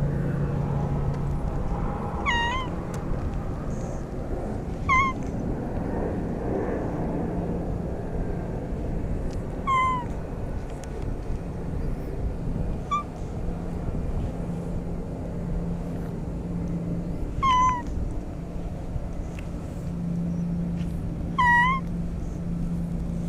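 Stray cat meowing, about six short calls a few seconds apart, over a steady low hum.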